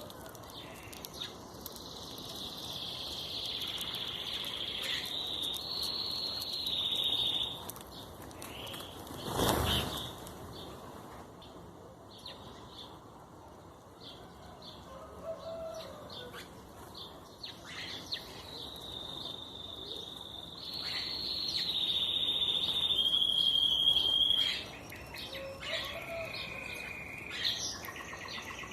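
Birds calling, with two long, high, steady trills that step in pitch and last several seconds each, scattered short chirps, and a brief thump about nine and a half seconds in.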